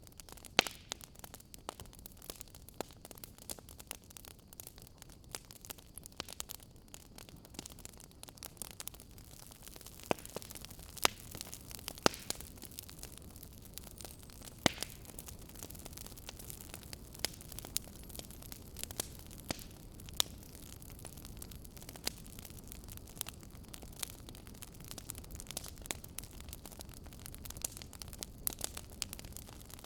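Campfire crackling: irregular sharp pops and snaps of burning wood over a steady low hiss of the flames, with a few louder cracks.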